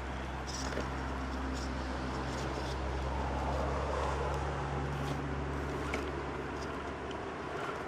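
An engine running with a steady low hum that grows louder around halfway and fades near the end, like a vehicle passing close by.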